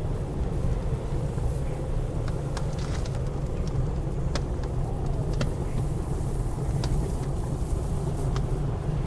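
Wood fire in a fireplace crackling, with scattered sharp pops every second or so, over the steady low rumble of blizzard wind.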